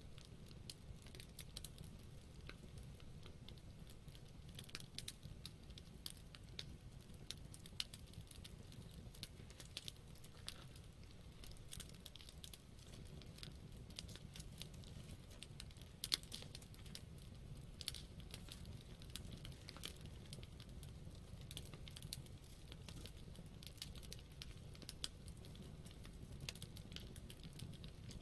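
Wood campfire burning, with irregular sharp crackles and pops over a low steady rumble; one louder pop about sixteen seconds in.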